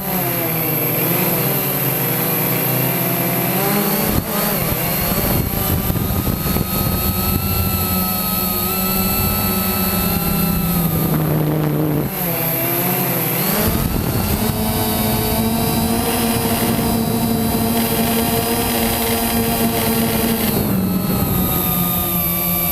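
Quanum Nova quadcopter's motors and propellers whining in flight. The pitch dips as the throttle eases near the start and again about twelve seconds in, then climbs back and holds steady.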